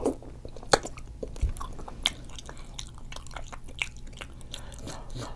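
Close-miked chewing of food: wet mouth clicks and smacks coming irregularly, several a second.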